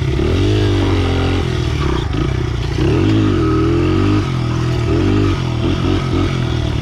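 Small single-cylinder pit bike engine being ridden, its revs rising and falling several times and going choppy near the end as the throttle is worked.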